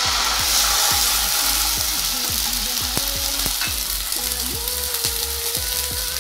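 Ginger and green chilli paste sizzling loudly in hot mustard oil in a kadai as it goes in, while a wooden spatula stirs it; the sizzle eases slightly as it goes on.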